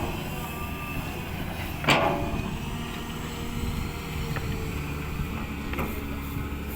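Heavy diesel machinery engine running steadily, with a sharp metallic clank about two seconds in and a lighter knock near the end.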